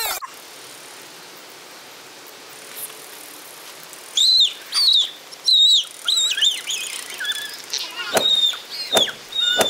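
Bird chirping over a steady outdoor hiss: from about four seconds in, a run of short, high, arching whistled calls, then a busier string of varied chirps. Two sharp knocks come near the end.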